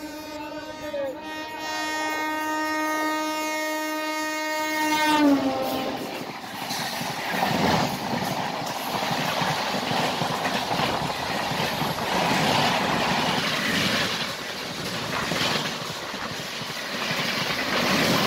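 Locomotive horn of an oncoming train, one long steady blast that drops in pitch and stops about five seconds in as the engine goes by. It is followed by the rushing noise and rhythmic wheel clatter of its passenger coaches passing close by.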